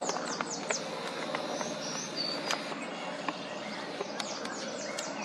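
Wild birds calling: many quick falling chirps and short high whistles over a steady background hiss.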